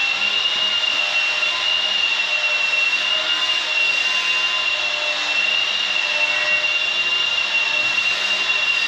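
Steady machine running noise: an even hiss with a constant high-pitched whine, of the kind a motor-driven shop machine makes.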